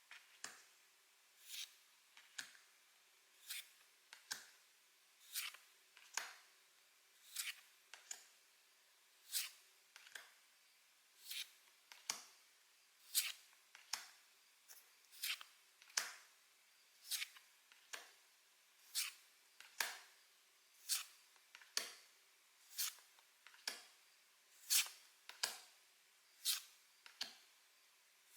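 Pokémon trading cards being flipped through one at a time, each card giving a short, crisp flick or slap, roughly once a second at an even pace.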